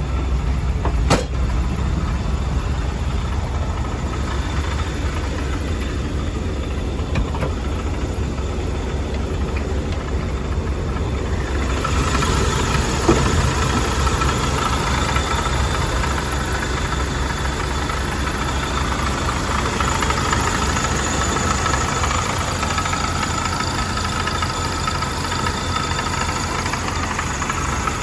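1979 Hurst/Olds Cutlass W-30's Oldsmobile 350 V8 idling steadily, with a knocking that comes from the smog (air injection) pump. A sharp click sounds about a second in, and from about twelve seconds in the engine sound turns brighter and clearer.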